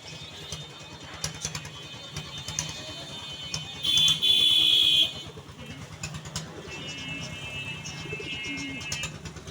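Busy bird-market din: many small caged birds chirping over a steady low engine rumble. About four seconds in, a loud steady high-pitched tone lasts about a second.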